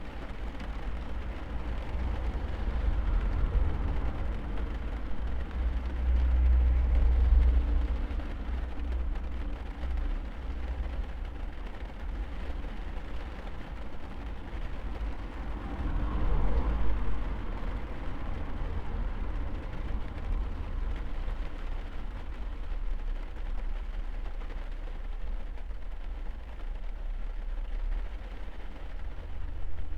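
Rain on a car, heard from inside the cabin as a steady hiss over a deep low rumble. The rumble swells twice, about seven and seventeen seconds in.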